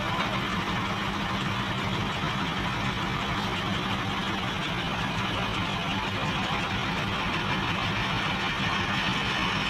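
An engine running steadily at an even speed, with a constant low hum under a broad noise.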